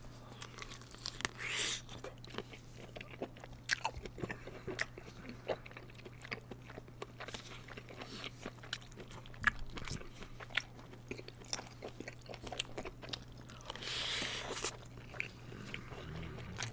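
Close-miked biting and chewing of kielbasa sausage: frequent short wet clicks and smacks, with longer hissy bursts about a second and a half in and near the end. A steady low hum runs underneath.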